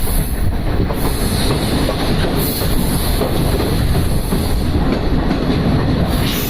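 Passenger train coach running through a railway tunnel: a loud, steady rumble of wheels on the rails.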